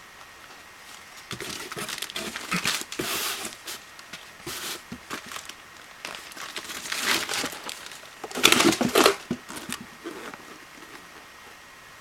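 Camcorder packaging being handled and unwrapped, in two spells of irregular crinkling noise, the louder one about eight to nine seconds in.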